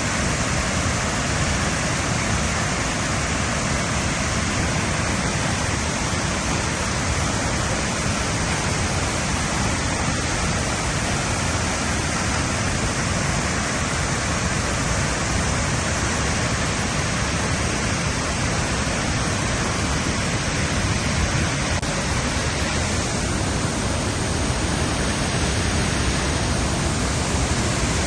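Ban Gioc waterfall's falling water, a loud, steady rush with no breaks.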